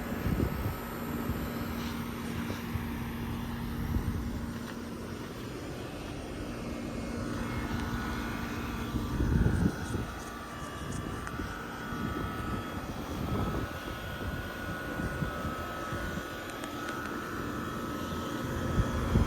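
American Standard outdoor air conditioner condenser unit running steadily, its compressor humming under the fan, with wind buffeting the microphone now and then.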